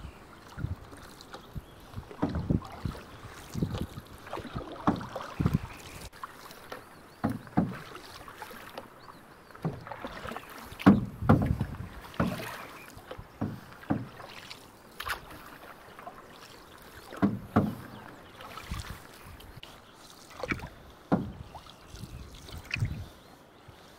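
Canoe paddling in choppy lake water: wooden paddles splashing through the water in irregular strokes, with knocks and slaps against the canoe over a low wash of water.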